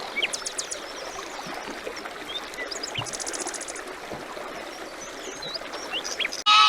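Small birds chirping with short high calls and a quick high trill about three seconds in, over a steady rushing hiss like running water.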